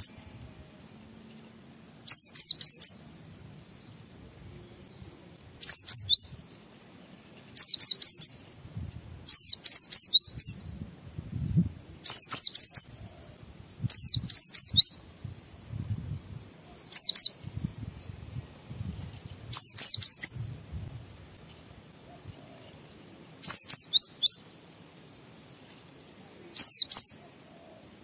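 A white-eye (pleci) singing vigorously in short, high phrases of quick down-slurred notes, repeated every two seconds or so. This is the loud 'gacor' song used as a lure to set other white-eyes singing.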